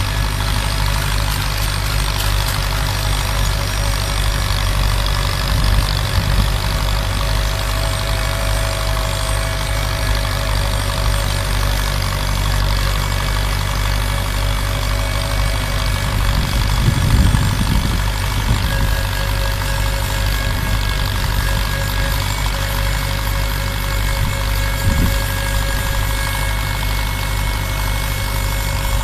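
A machine running steadily with a low, even hum, and a few brief bumps along the way, the strongest about two-thirds of the way through.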